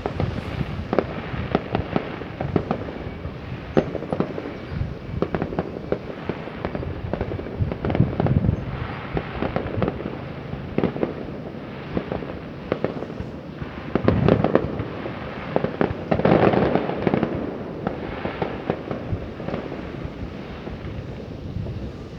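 Fireworks going off: a continuous crackle of many rapid small bangs, swelling into louder clusters of booms a few times.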